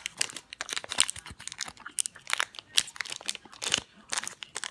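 Foil Pokémon card booster pack being crinkled and torn open by hand: a run of irregular crackles and crinkles.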